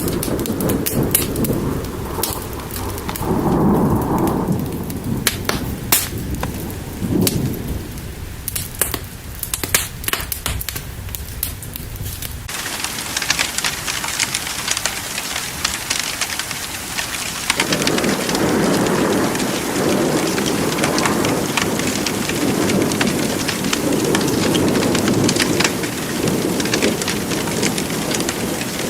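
Thunderstorm ambience: steady rain with rolling thunder rumbling and sharp crackles through the first half. About twelve seconds in it changes abruptly to a denser, hissier downpour, and the thunder rumbles again in the last third.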